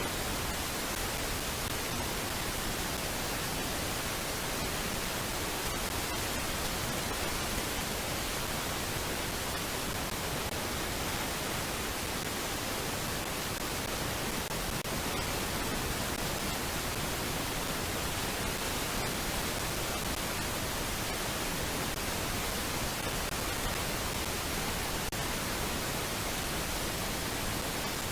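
Steady, even static hiss across all pitches, with no bird calls or other events in it.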